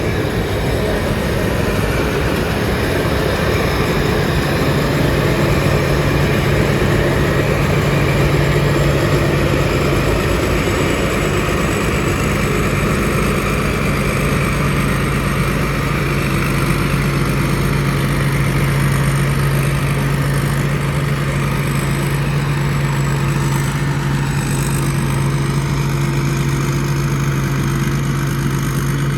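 Rice combine harvester running steadily in the paddy, its engine and machinery giving a constant, even hum.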